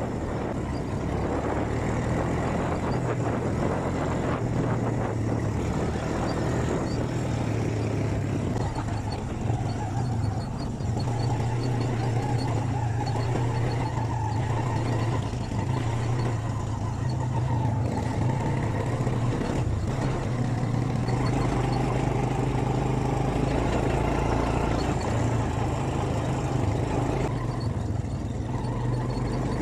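Quad bike (ATV) engine running at a steady speed while riding, a continuous low drone with little change in pitch.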